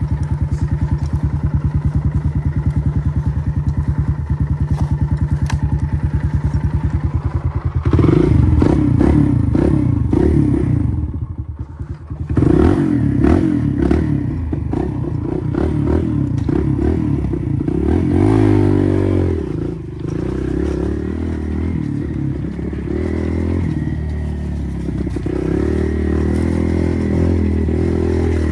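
Kawasaki KLX140R F's single-cylinder four-stroke engine idling with an even pulse, then opened up about eight seconds in. It is ridden, revving and easing off, with a brief drop in throttle near twelve seconds and a rising rev that falls away about two-thirds through, before settling into a steady run.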